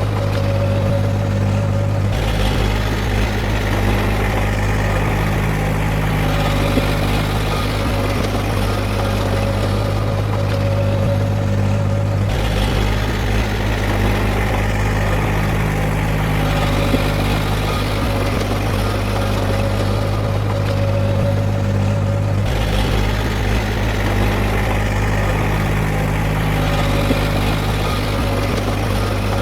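Heavy diesel earthmoving machinery running steadily with a deep, even engine hum and a slight change in tone about every ten seconds.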